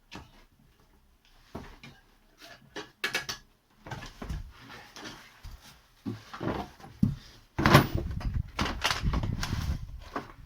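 Knocks and metal clatter from hands and tools working on a car: a few separate knocks at first, then a dense, loud run of clattering near the end.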